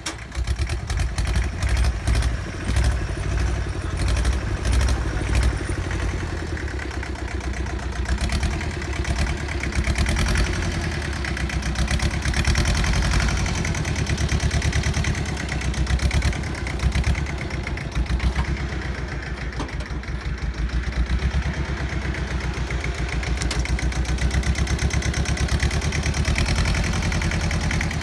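Bolens G194 garden tractor's engine running steadily as the tractor works a scraper blade through dirt, with sharp clattering mostly in the first ten seconds or so.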